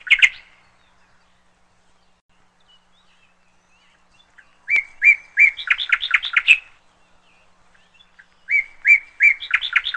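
A songbird singing in two separate phrases a few seconds apart. Each phrase is a few evenly spaced whistled notes that break into a quicker, louder run of notes.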